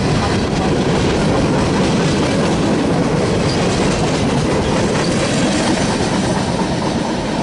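CSX freight train's cars rolling past slowly, a steady loud rumble of steel wheels clattering over the rails.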